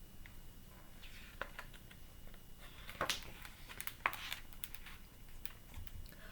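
Faint handling of a picture book: light clicks and a few short paper rustles, the strongest about three seconds in.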